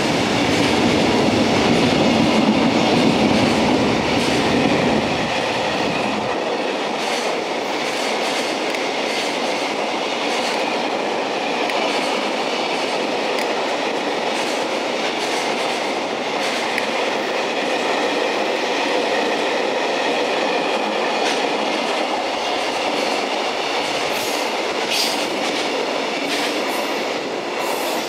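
A JR Freight container train hauled by an EF210 electric locomotive running through, its container wagons rolling past in a steady rumble with wheels clattering over rail joints. A deep low rumble drops away about six seconds in.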